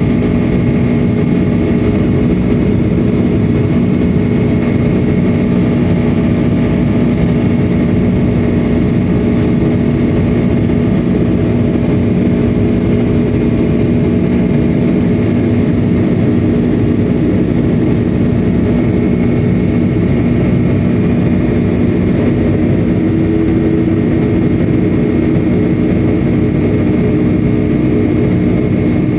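Boeing 757-200's jet engines heard from inside the passenger cabin: a loud, steady drone with a few steady whining tones in it. About 23 seconds in, an extra tone joins.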